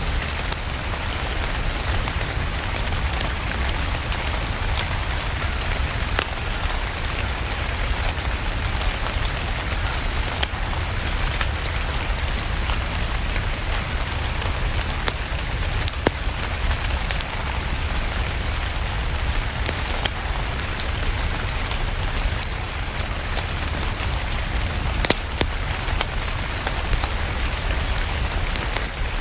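Steady rain with a low rumble underneath, and scattered sharp crackles from a wood fire burning in a fireplace, the loudest about 6, 16 and 25 seconds in.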